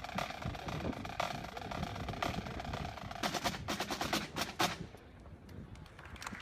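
Drums playing, with a stroke about once a second, then a fast run of sharp, snare-like strokes about three seconds in. The drumming drops away for the last second or so.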